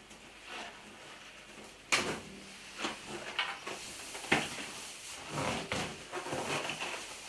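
Two sharp clicks, about two seconds in and again in the middle, then scratchy rubbing and squeaking as an oil-based marker draws on a large latex balloon.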